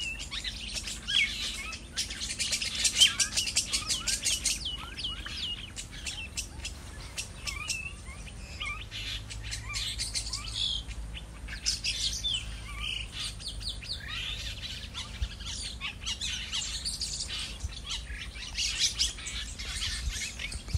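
Many small birds chirping and twittering in quick overlapping calls, over a faint steady low hum.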